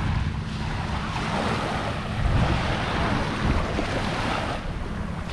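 Wind buffeting the microphone with a low, fluttering rumble, over a steady rush of water and surf along an inlet shore.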